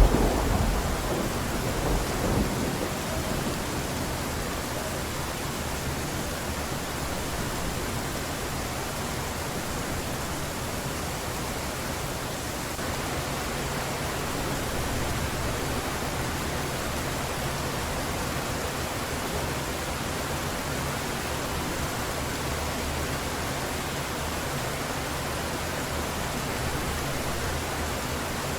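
Heavy rain falling steadily as an even hiss. The rumble of a thunderclap fades out over the first two or three seconds.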